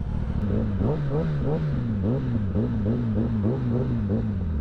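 Kawasaki Ninja ZX-10R sport bike's 1000 cc inline-four engine running under way, its pitch rising and falling in quick repeated swells about twice a second.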